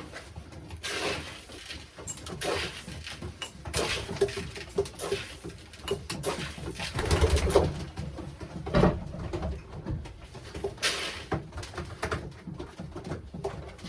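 Racing pigeons cooing, with scattered short knocks and clicks.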